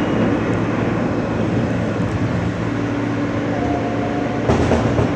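Inside a moving R160 subway car: steady running noise of the wheels on the rails and the car body, with faint steady motor tones. A short hiss or clatter comes about four and a half seconds in.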